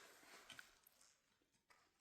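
Near silence, with a few faint clicks and soft rustles that fade off after the first second.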